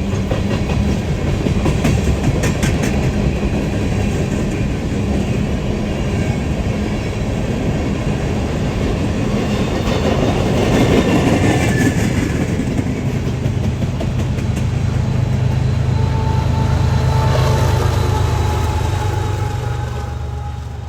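Diesel freight locomotive running as the train moves on the rails, with a steady low engine drone and some clicking of wheels on the track.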